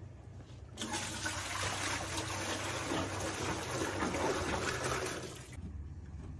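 Water pouring in a steady stream for about five seconds, starting suddenly about a second in and cutting off abruptly near the end.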